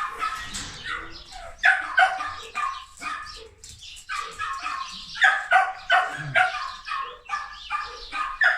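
Bodeguero dog barking and yipping in rapid runs of short, high calls, two to three a second, with brief pauses between runs.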